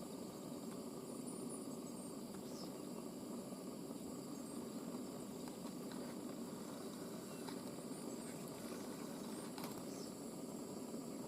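Steady low background noise with a few faint ticks and brief, very faint high-pitched sounds scattered through it.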